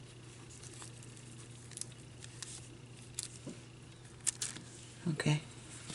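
Faint, scattered light taps and rustles of hands handling small craft materials on a tabletop, with a few sharper clicks a little past the middle.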